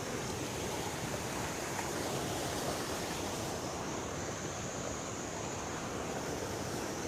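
River water rushing, a steady even noise with no distinct events.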